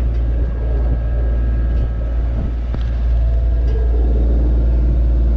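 Sailboat's auxiliary engine running steadily under way: a continuous low rumble with a steady hum above it.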